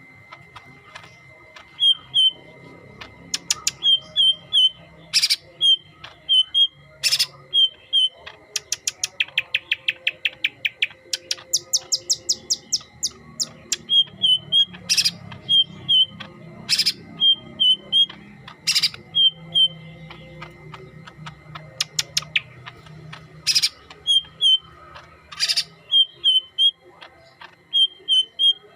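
Leafbird (cucak hijau, yellow-headed form) singing: short chirps in twos and threes, loud sharp notes every couple of seconds, and a fast rattling trill between about 8 and 13 seconds in. A faint steady high tone sits underneath.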